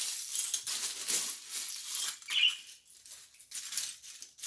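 Loose plastic Lego bricks clattering and clicking against each other as hands rummage through a pile of pieces, busiest in the first couple of seconds and sparser after.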